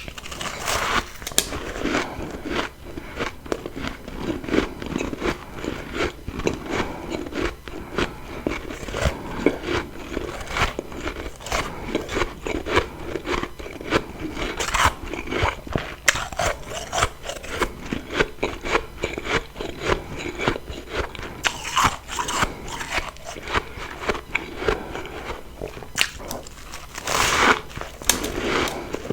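Close-miked biting and chewing of refrozen freezer frost: a dense run of crisp crunches and small crackles, with a few louder bites spread through, the loudest and longest near the end.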